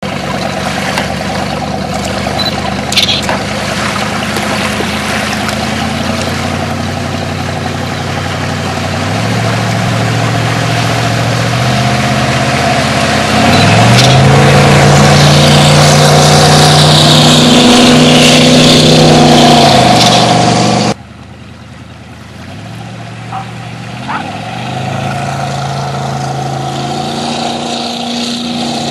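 Bayliner speedboat's engine running under way, its pitch rising in several steps as the throttle is opened, with a strong hiss over it; loudest about halfway through. The sound drops suddenly about two-thirds of the way in, then the engine pitch climbs again.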